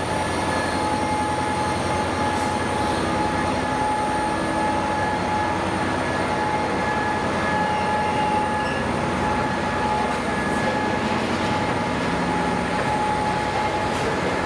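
Freight train wagons rolling past at a steady pace, a continuous rumble with a steady high-pitched tone running through it.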